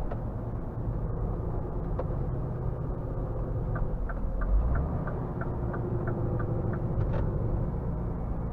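Scania R450 truck's 13-litre inline-six diesel running at low speed with a steady low rumble. A light ticking about three times a second comes in for a few seconds in the middle, with a few single knocks.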